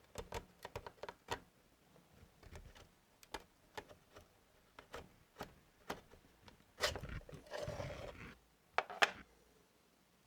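Work noises on a small metal tool box: scattered clicks and knocks, a rough scraping stretch of about a second and a half near seven seconds in, then two sharp clicks.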